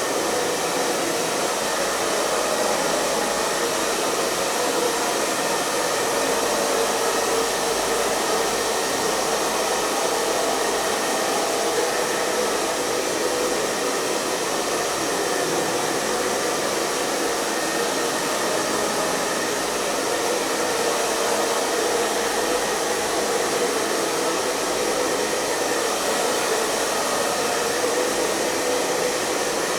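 Hair dryer running continuously: a steady rushing blow of air and motor hum that does not change.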